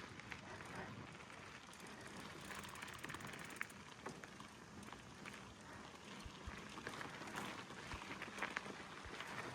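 Gravel bike tyres rolling over a gravel road: a soft, steady crunch with scattered small clicks of stones.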